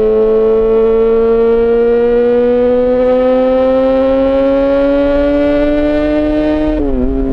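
Yamaha XJ6 S's inline-four engine through an SC-Project exhaust, revs climbing steadily in gear for several seconds. Near the end a quick gear change drops the pitch before the engine settles and pulls on.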